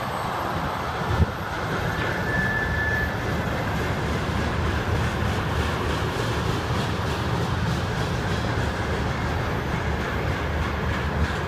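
Empty railroad tank cars of a freight train rolling past with a steady rumble of steel wheels on rail. There is one sharp knock about a second in and a brief high squeal about two seconds in. Rhythmic clicking of wheels over the rail joints runs through the second half.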